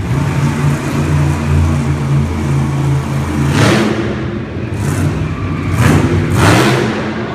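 Monster truck engine running hard during a freestyle run, its low note holding steady, with two louder rushes of noise about three and a half and six seconds in.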